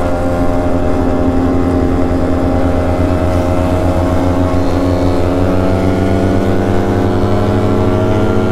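Yamaha RX135 single-cylinder two-stroke motorcycle engine running loud and steady at highway cruising speed, its pitch holding nearly level with a slight rise.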